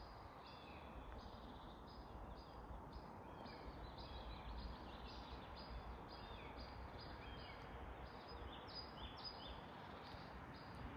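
Faint small songbird calling over and over, short high notes repeated about two or three times a second, over soft outdoor background noise.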